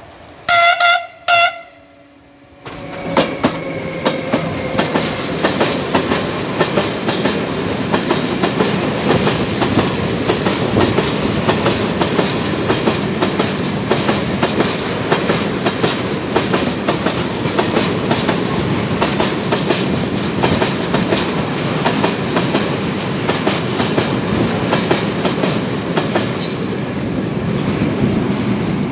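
Siemens Hellas Sprinter electric locomotive sounding two short horn blasts, then the locomotive and a long train of tank wagons pass close by: steady running noise of wheels on rail with a fast, irregular clatter of wheels over rail joints, easing off near the end as the last wagons go by.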